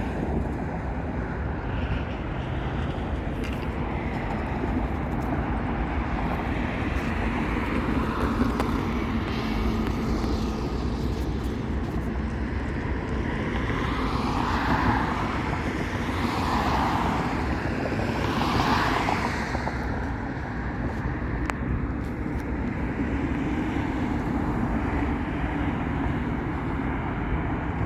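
Steady outdoor rumble of road traffic mixed with jet aircraft noise, with three brief swells a little past halfway.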